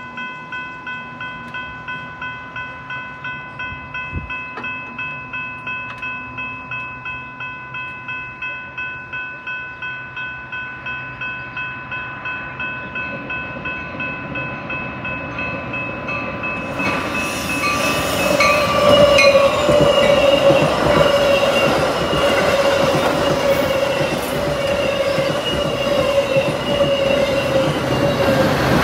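A grade-crossing bell rings steadily, about two and a half strokes a second. About 17 seconds in, a Metra commuter train of bilevel coaches with a locomotive at the rear passes through without stopping, and its rumble and wheel clatter swell up and cover the bell.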